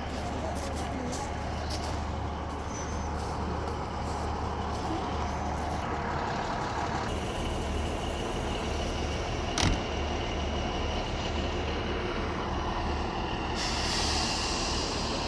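Diesel engines of a ScotRail Class 153/156 diesel multiple unit idling at the platform, a steady low hum. A single sharp click comes about ten seconds in, and a hiss starts near the end.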